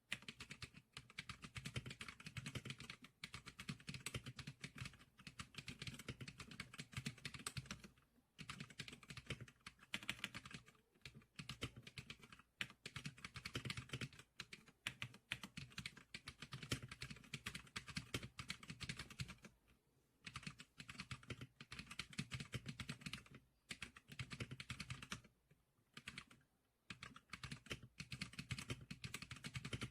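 Typing on a Geeklicker SPK100 computer keyboard: a fast, continuous run of key clicks with a few brief pauses.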